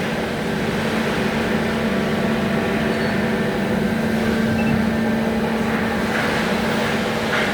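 Steady mechanical running noise with a constant low hum, unchanging throughout.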